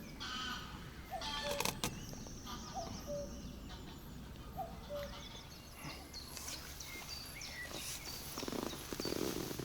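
Birds calling over quiet outdoor background noise, one bird repeating a short rising note about once a second among higher chirps. A couple of brief knocks come about a second and a half in.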